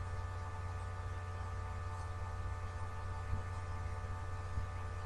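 Steady electrical mains hum with a stack of even overtones, constant in pitch and level.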